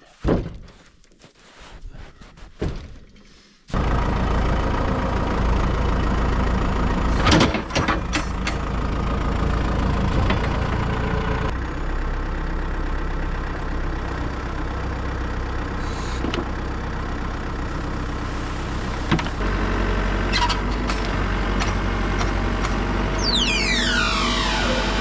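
Diesel engine of a heavy loader machine running steadily; it comes in abruptly after a few knocks in a quieter stretch, with a few clanks along the way and a whine falling in pitch near the end.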